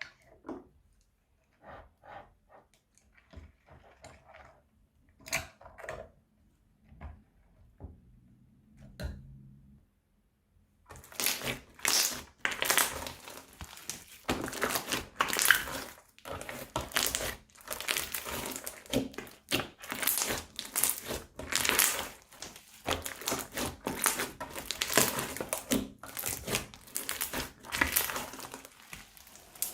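Slime and plastic piping bags being handled and squeezed. Scattered soft clicks and squishes come first, then from about eleven seconds in a dense, continuous run of crinkling, crackling squishes.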